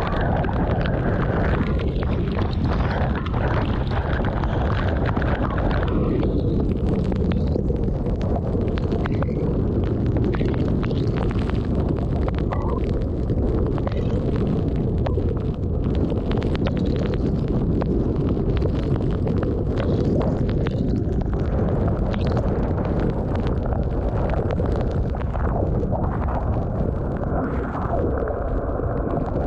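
Strong thunderstorm wind buffeting the microphone: a steady, loud low rumble with no let-up.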